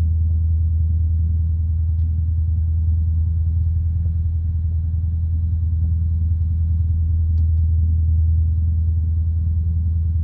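Single-engine piston light aircraft's engine running steadily after start, a deep even drone heard through the cockpit intercom.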